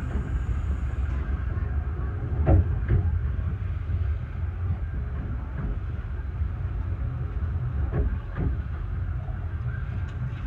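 Low, steady rumble of a 15-inch gauge railway carriage rolling slowly, heard from inside its compartment. Two pairs of short knocks from the wheels come about a third of the way in and again near the end.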